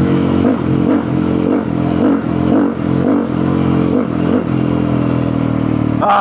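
A Yamaha supermoto's engine, fitted with an FMF exhaust, running at low, steady revs with a regular pulse about twice a second.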